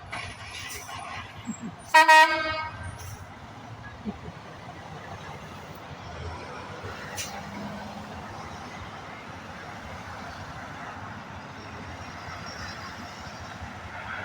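A truck air horn sounds one short, loud blast about two seconds in. Steady road traffic noise continues around it.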